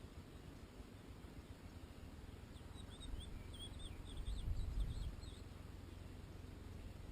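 European goldfinch singing a short, quick twittering phrase of high, wavering notes, starting about two and a half seconds in and lasting about three seconds, over a low background rumble that swells briefly near the middle.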